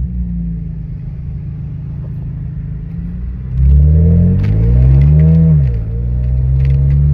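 2007 BMW 335i's N54 twin-turbo straight-six running through a muffler-deleted exhaust with catless downpipes and the secondary cats removed. It runs steadily, then about three and a half seconds in it is revved, getting louder and rising in pitch, and drops back about two seconds later.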